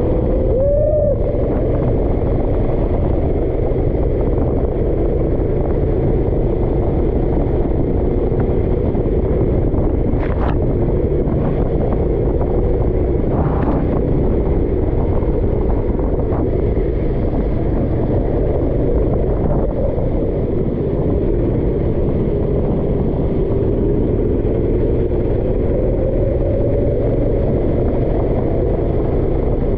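Kart engine running hard under racing load, its pitch rising and falling gently as the throttle changes, over a steady rush of wind on the microphone.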